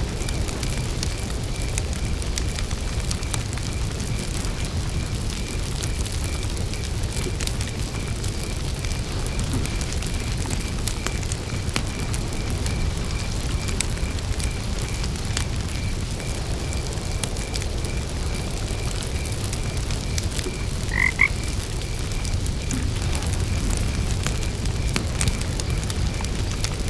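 Campfire crackling with a steady low rumble of burning wood, under a steady high, evenly pulsed chirping of crickets. About 21 seconds in, a frog croaks twice in quick succession, the loudest sound here.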